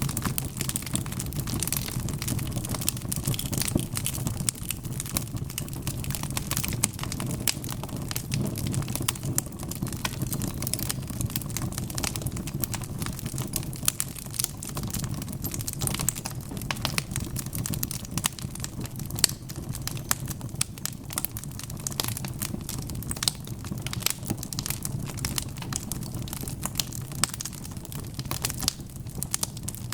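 Wood fire burning with a steady low rumble of flames and dense, irregular crackling and popping throughout.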